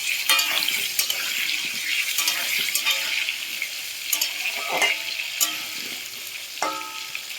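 Potato pieces frying in hot oil in a kadai, sizzling steadily, while a utensil stirs them and clicks and knocks against the pan several times.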